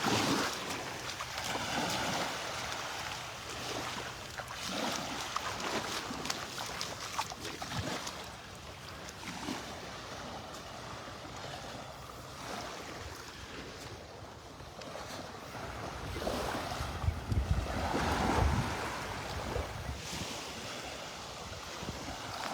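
Gulf surf washing on the beach with wind on the microphone, the wind rumble loudest about three quarters of the way through.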